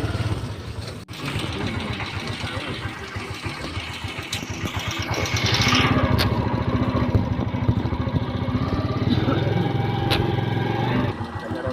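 Small motorcycle engine running steadily, its firing pulses heard as a fast low buzz, growing louder about six seconds in.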